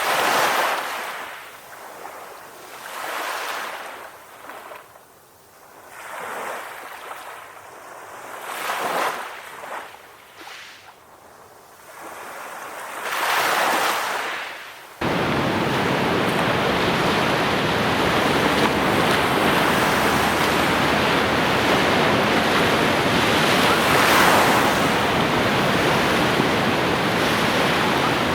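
Ocean waves breaking and washing in, one surge every two to three seconds with quieter gaps between. About halfway through, the sound cuts suddenly to a steady, louder rush of surf with no gaps.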